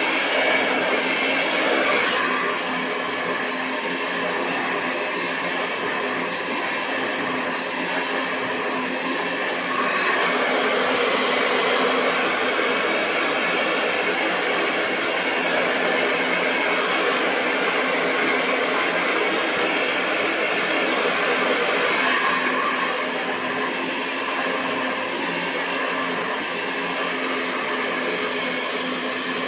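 Hair dryer blowing continuously: a steady rush of air over a constant motor hum, its tone and level shifting slightly a few times.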